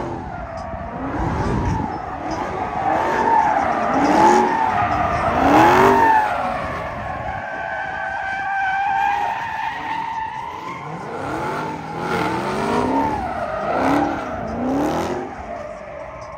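A car doing donuts: tires squealing continuously in a pitch that wavers up and down, while the engine revs rise again and again under load. The squeal is loudest a few seconds in and fades near the end.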